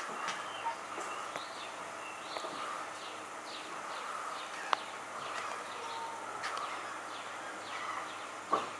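Birds chirping, with many short high calls scattered throughout over steady outdoor background noise. There is a single sharp click a little under five seconds in.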